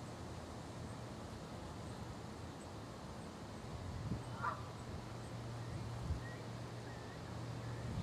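Lakeside ambience with a low steady hum. A single short, harsh bird call comes about halfway through, and faint high chirps from small birds follow near the end.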